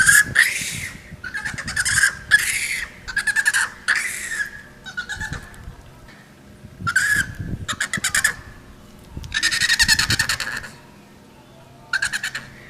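Monkey calls in a run of short bouts of rapid, pulsed chattering, about ten bouts in all, the longest about nine seconds in.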